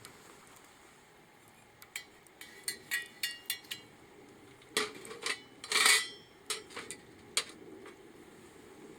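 Metal objects clinking and clattering together, a run of light ringing clinks followed by a louder clatter about halfway through and a few last clicks.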